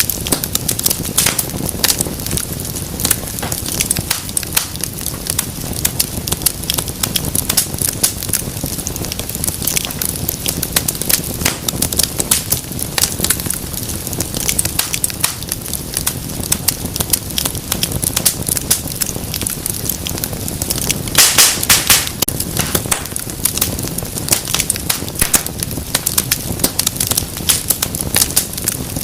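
Wood fire in a fireplace crackling and popping with many irregular sharp snaps over a low rumble of burning. About two-thirds of the way through, a louder cluster of pops and hissing lasts about a second.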